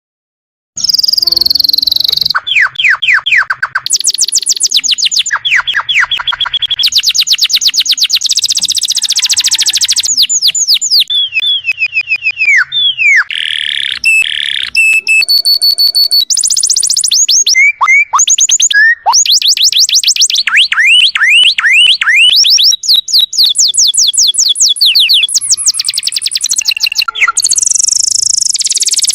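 Domestic canary song, loud and continuous: fast trills of rapidly repeated notes, falling sweeps and long high whistles, starting abruptly about a second in. It is a masteran tutor recording, played for songbirds to learn from.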